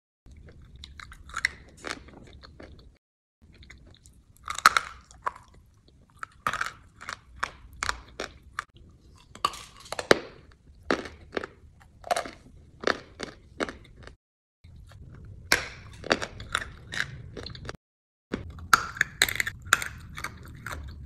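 Close-miked crunchy eating: a person biting and chewing hard, brittle food, giving a rapid series of sharp crunches. It is cut into short spliced clips, with a few abrupt drops to silence between them.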